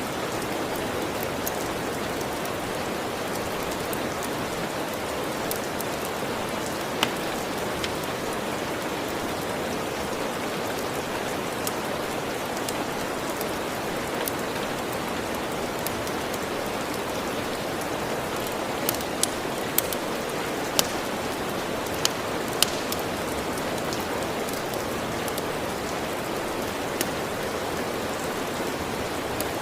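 Steady rainfall hissing evenly, with scattered sharp pops and clicks, several close together about two-thirds of the way through.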